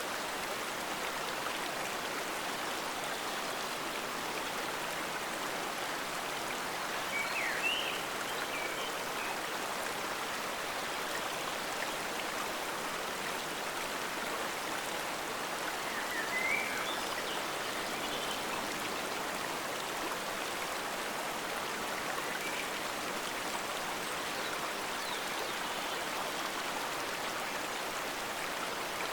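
Forest stream flowing steadily: a continuous rush of water. A few brief high chirps come about a quarter of the way in and again just past halfway.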